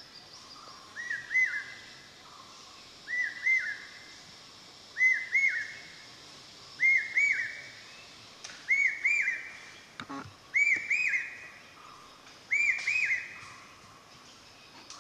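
A bird's whistled call of two or three arched notes, repeated about every two seconds and getting louder and a little higher in pitch as it goes. A single sharp crack sounds about ten seconds in.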